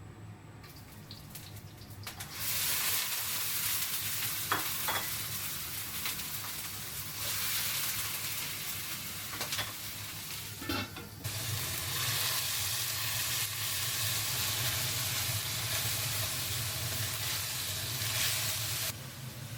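Food sizzling hard as it fries in a hot pan and is stirred, with a few utensil knocks against the pan. The sizzle starts about two seconds in and cuts off shortly before the end, over a steady low hum.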